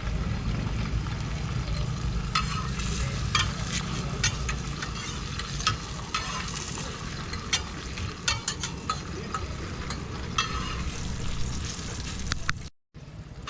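Roti frying in oil on a hot flat griddle, sizzling steadily, with frequent sharp taps and scrapes of a metal spatula on the pan over a steady low hum. The sound cuts out briefly near the end.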